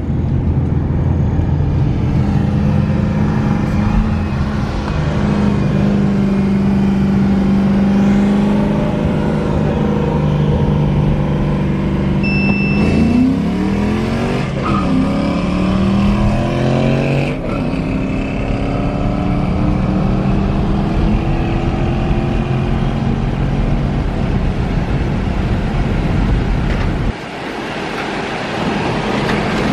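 Ford Mustang EcoBoost engine heard from inside the cabin, running steadily, then accelerating hard at a race launch, its pitch rising in several sweeps about thirteen to seventeen seconds in. A short high beep sounds just before the launch.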